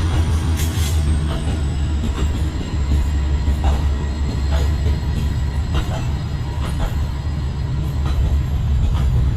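Train running on the track: a steady low rumble with short clicks roughly once a second.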